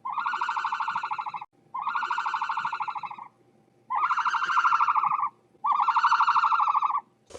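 An animal calling four times in a row, each call a long, buzzy, fast-pulsing note lasting about a second and a half.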